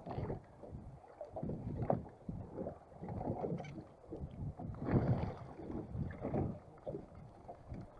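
Irregular low rumbling of wind on the microphone and water slapping against a small boat's hull.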